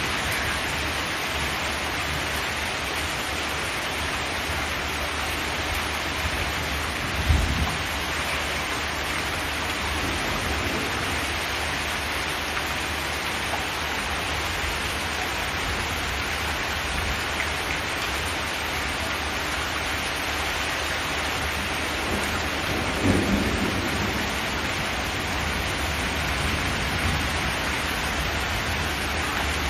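Steady heavy rain drumming on a zinc metal roof, an even hiss throughout. Two brief low rumbles stand out, about 7 seconds in and again near 23 seconds.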